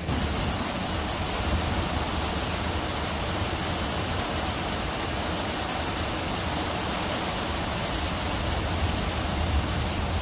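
Heavy rain pouring on a tin roof in a steady, dense hiss, under a continuous low rumble of thunder.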